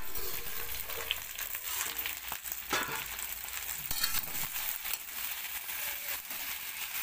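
Potatoes and okra sizzling in oil in a steel kadhai, with a steel spatula scraping and stirring through them now and then.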